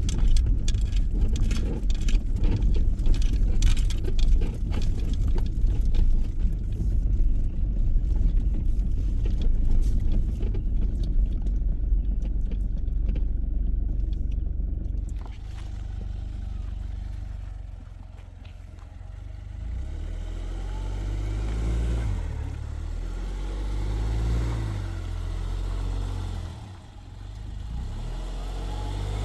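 Motor vehicle on the move: about fifteen seconds of rough rumble with crackling road or wind noise, then a quieter, steadier engine drone that rises and falls in pitch.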